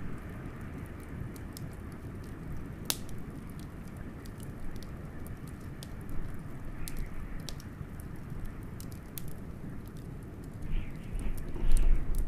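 Wood fire crackling, with frequent sharp pops and one louder crack about three seconds in, over a steady low rush of wind. Near the end a louder low rumble swells briefly.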